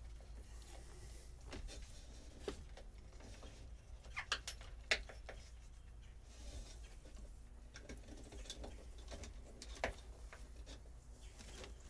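Scattered light clicks and knocks from hand work on old boat wiring, the sharpest clustered about four to five seconds in and again near ten seconds, over a low steady hum.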